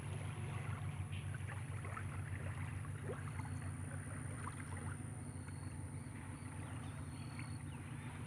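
Creek-bank water ambience: water lapping and trickling in many small splashes over a steady low hum and a steady high whine, with a few short high peeps in the second half.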